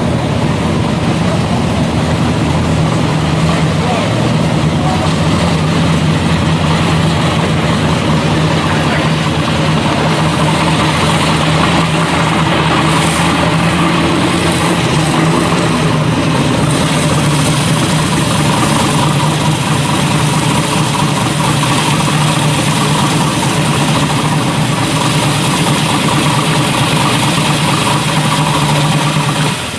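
Supercharged street-rod engine in a 1940 Ford, idling steadily with an even, unchanging note while the car rolls slowly at idle.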